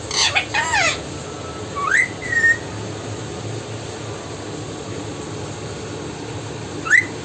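Pet parrot whistling: a quick run of falling chirps at the start, a rising whistle followed by a short level note about two seconds in, and another rising whistle near the end.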